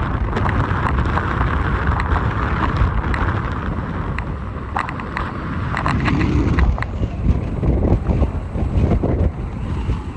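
Strong wind buffeting the microphone: a loud, uneven low rumble that rises and falls in gusts, with a few faint clicks.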